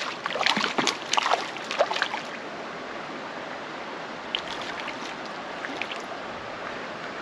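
Creek water running steadily, with a run of short splashes in the first two seconds.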